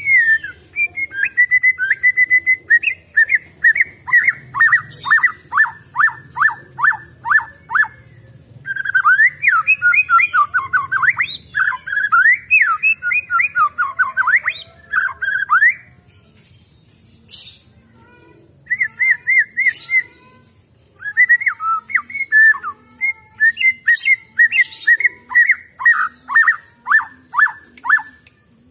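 White-rumped shama (murai batu) calling in long runs of quick, down-slurred notes, a few each second. The runs are broken by two short pauses, and faint high ticks sit above the notes.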